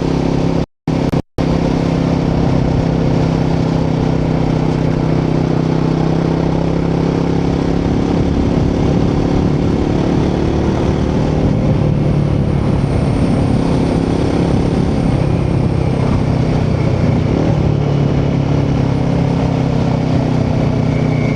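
Royal Enfield Himalayan 450's 452cc single-cylinder Sherpa engine running at a steady cruise, its exhaust note holding an even pitch. The sound cuts out completely twice for a moment about a second in.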